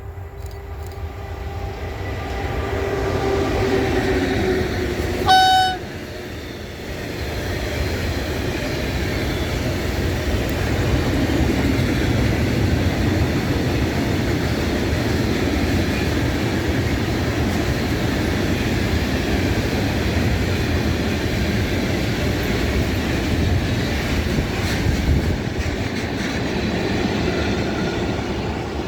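A train approaching, the sound growing louder with a few steady tones. About five seconds in it gives one short horn blast. It then passes steadily for about twenty seconds before fading.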